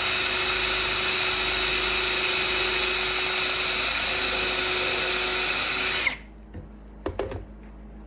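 An electric power tool running steadily with a high whine, switched off about six seconds in and winding down quickly, followed by a few light knocks.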